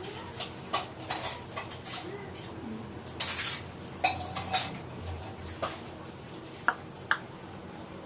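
Metal spoon and kitchen utensils clinking and scraping against dishes: a run of sharp clicks, a longer scrape about three seconds in, and a ringing metal clink just after.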